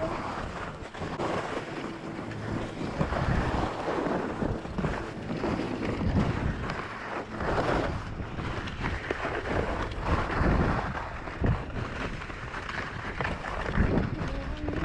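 Wind rushing over a GoPro microphone during a ski run, swelling and easing, with skis scraping over spring snow and occasional knocks.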